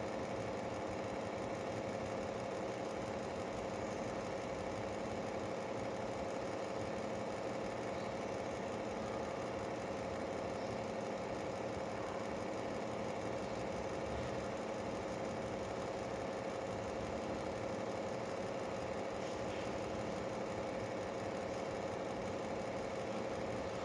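A steady mechanical hum with a constant pitch, like a motor or engine running without change.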